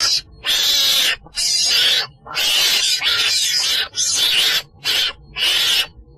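An animal making six harsh, breathy, hiss-like calls in a row, each half a second to a second long, with short gaps between them.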